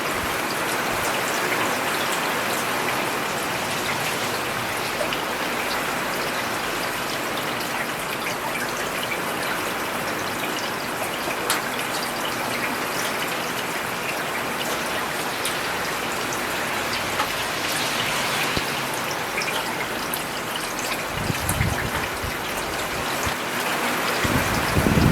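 Steady rain falling on a road, a dense even hiss with scattered close drop splashes. A low rumble swells briefly twice near the end.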